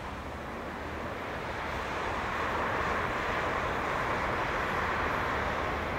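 A train approaching on the line: a rolling noise that grows louder over the first couple of seconds, then holds steady.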